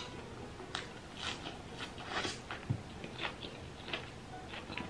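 A person chewing and biting grilled pork belly close to the microphone: irregular wet mouth clicks and chewing noises, several a second. There is a sharper click at the start and a low knock a little before the middle.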